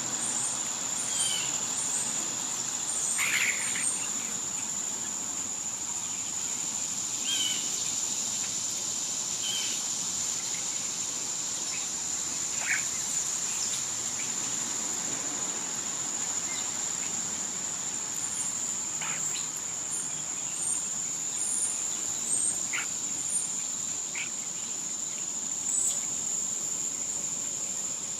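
Steady high-pitched drone of a summer insect chorus, with runs of short, very high chirps and scattered brief bird calls over it.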